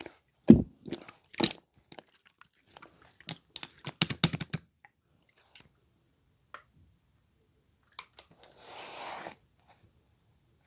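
Slime being pressed and squeezed by hand, giving sharp pops and crackles, thickest in a quick run a few seconds in. A short, soft rustling sound comes about nine seconds in.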